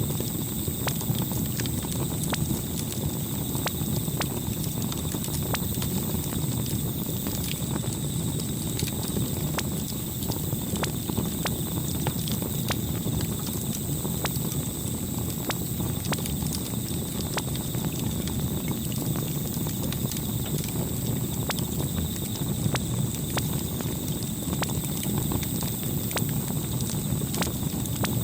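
Campfire crackling: a steady low rumble of burning wood with frequent irregular sharp pops and snaps.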